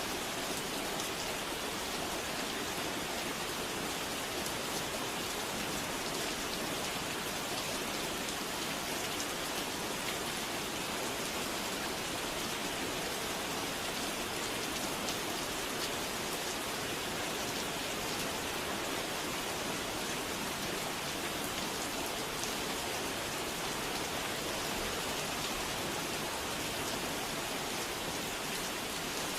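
Steady rain falling, an even continuous hiss without change in level.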